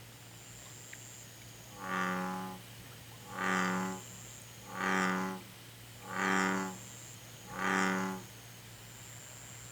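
American bullfrog calling: five low, deep calls like a bull's moo, each under a second long and about a second and a half apart, starting about two seconds in. The calls come from the inflated vocal sac under the chin.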